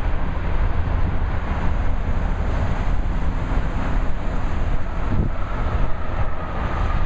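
Steady low rumble of passing truck traffic, with wind buffeting the microphone. A faint whine enters about five seconds in.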